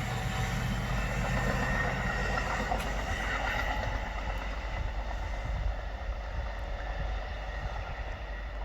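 A passing train moving away: the rumble and rail noise fade steadily, leaving a low rumble.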